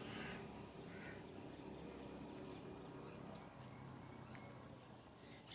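Faint bird calls: two short ones near the start and about a second in, over a low steady hum.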